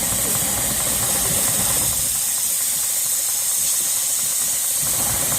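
Steam hissing steadily from a steam engine, over a low engine rumble that drops away about two seconds in and comes back near the end.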